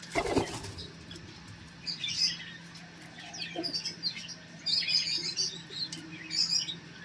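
Wings flap in a short flurry at the start, then small pet birds chirp over and over in short high calls.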